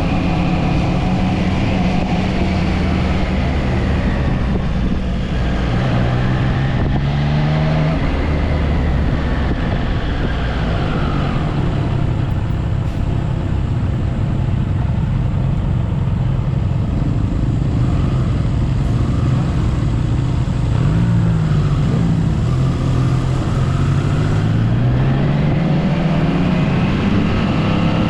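Triumph Trident 660 inline three-cylinder engine under way, its pitch climbing and dropping repeatedly as the rider accelerates through the gears and eases off, with rushing wind noise.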